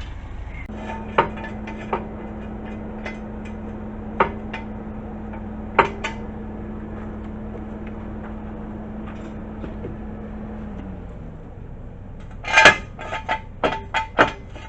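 Metal clanking and knocking from hand tools and parts being worked on, with a steady motor hum that winds down and stops about eleven seconds in. A quick run of loud metallic clanks follows near the end.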